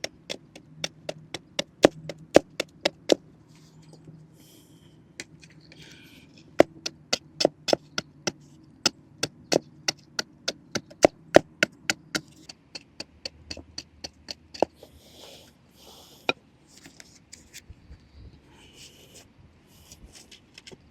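Knife chopping on a wooden cutting board in quick runs of about four strokes a second, pausing between runs, then a few scattered strokes and light faint clicks.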